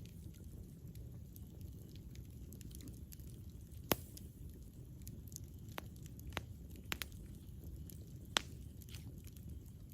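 Wood campfire burning: a steady low rumble of the flames with scattered sharp crackles and pops, the loudest about four seconds in and another near the end.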